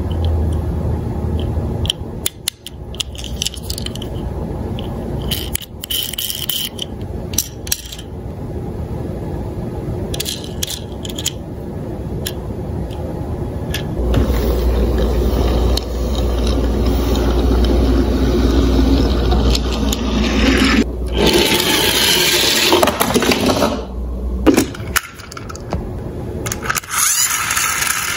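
Diecast toy police cars clattering and scraping: sharp metal clicks and knocks, with a longer stretch of steady rolling noise in the second half as cars run down the slope.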